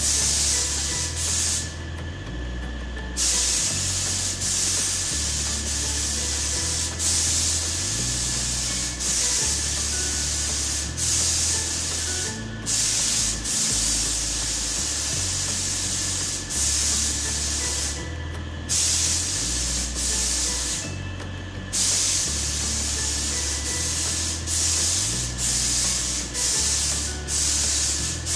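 Compressed-air paint spray gun hissing as it sprays paint onto a plastic car bumper. The trigger is let off a few times: the hiss stops for about a second, about two seconds in and twice around three-quarters of the way through, and briefly near the middle.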